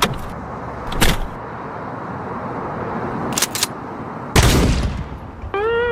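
Several sharp bangs over a steady noisy background: one at the start, one about a second in, a quick pair a little past three seconds, and the loudest with a low rumbling tail about four and a half seconds in. Music with held pitched notes, like slide guitar, begins near the end.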